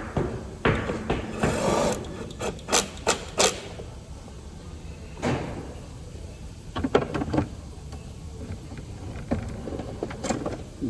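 Tools and parts being handled: a quick run of sharp knocks and clicks in the first few seconds, then a few scattered clatters.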